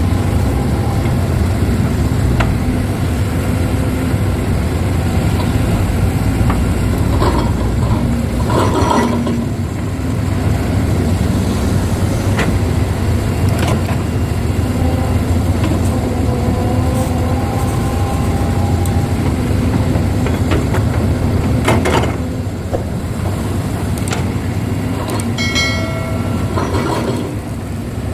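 Kobelco excavator's diesel engine running steadily under load, with a few sharp metallic clanks from the digging and loading and a brief high squeal near the end.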